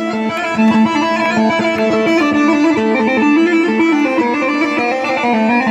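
Arabic electronic keyboard playing a fast instrumental dabke melody in quick stepping notes over a steady drum-machine beat.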